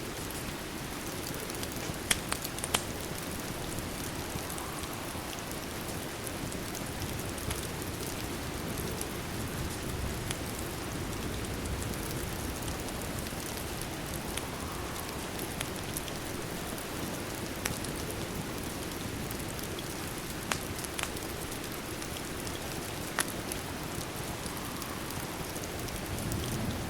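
Steady rain falling, an even hiss and patter, with a few sharp crackles from a wood fire in a fireplace, mostly a cluster about two seconds in and a few more late on.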